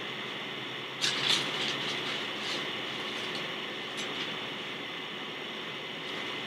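Steady hiss of a faulty recording, with short crinkling rustles about a second in and a few fainter ones later, typical of plastic packaging being handled.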